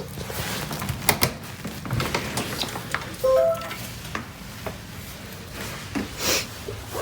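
Clatter of small objects being handled, with sharp clicks and knocks throughout and a brief high squeak about three seconds in.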